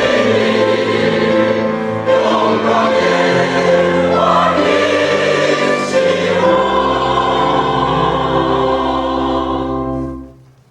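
Church choir singing the closing phrase of a hymn, ending on a long held chord that dies away about ten seconds in.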